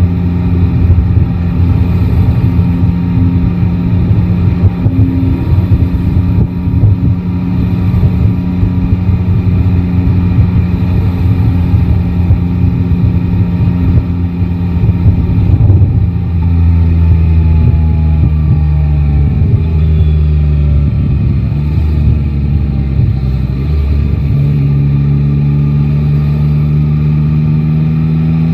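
Yamaha Tracer 9 GT's three-cylinder engine running under way, holding a steady note for the first half. About halfway through the note drops and wavers. Near the end it settles to a steady note again, rising slightly at the very end.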